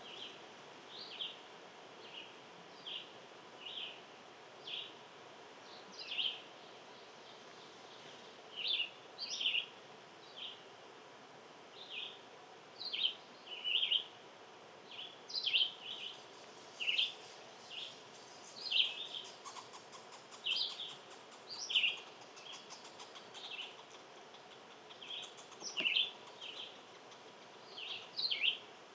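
Small songbirds calling outdoors with short, sharp chirps, roughly one a second and coming more thickly in the second half. A faint high hiss joins about halfway through.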